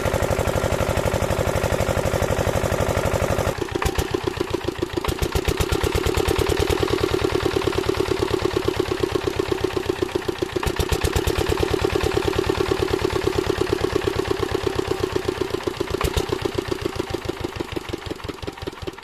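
Single-cylinder 8 hp diesel engine of an irrigation water pump set running with an even thudding beat. The sound changes character a few seconds in, then stays steady and fades near the end.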